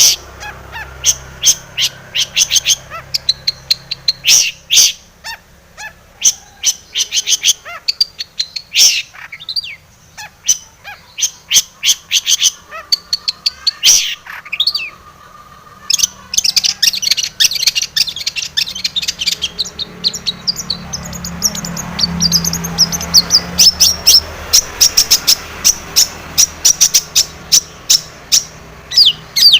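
Long-tailed shrike (cendet) singing: quick series of short, sharp high notes. The notes pause briefly about halfway, then come back faster and denser.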